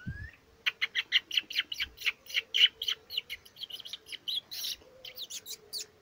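A songbird singing a fast series of short, sharp chirping notes, about six a second, starting just under a second in and running for about five seconds. A brief rising whistle comes just before it.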